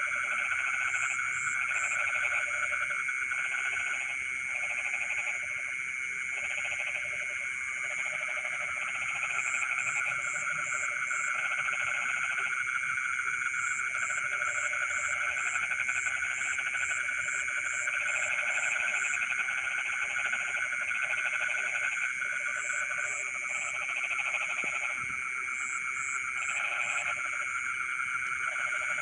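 Dense night chorus of frogs in a flooded rice field: a steady high trilling underneath, lower calls repeating in short bouts that start and stop every second or two, and now and then runs of quick high pips.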